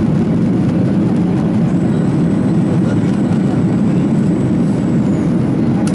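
Loud, steady engine and air rumble inside an airliner's passenger cabin under power during takeoff and climb. A faint, thin high whine holds from about two seconds in until near the end.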